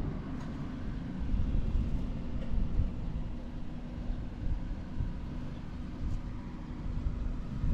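Yamaha Breeze 125 ATV's 124 cc single-cylinder four-stroke engine running steadily, a constant hum with no abnormal noise, under wind rumbling on the microphone.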